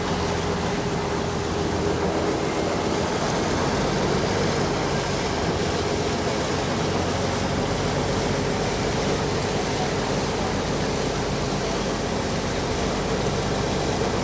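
Diesel engine of a Saen Saep canal passenger boat running steadily under way, with a constant rush of noise over its low drone.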